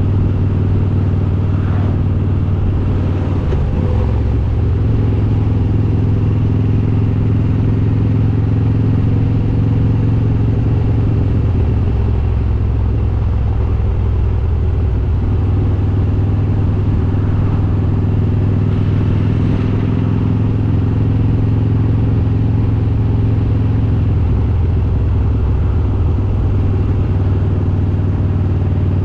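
Harley-Davidson Road King's S&S 95-cubic-inch V-twin with Super Stock heads running steadily under way at cruising speed. Its pitch dips and rises a little as the throttle changes.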